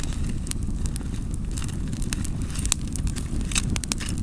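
Wood campfire crackling, with frequent sharp pops and snaps over a low, steady rumble.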